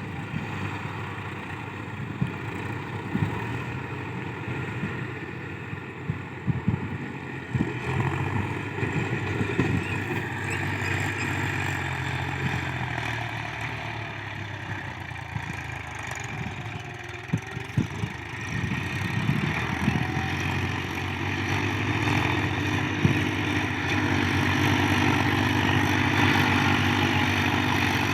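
Tractor engine running, with scattered knocks and clatter; it grows louder after about twenty seconds.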